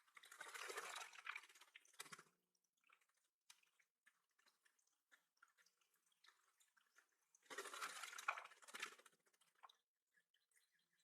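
Faint splashing of water in two short bursts, one at the start and one past the middle, with a few faint drips and ticks between.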